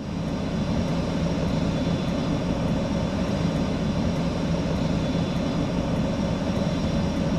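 Aircraft engine running steadily: an even, loud engine noise with a low hum and faint steady high tones, unchanging throughout.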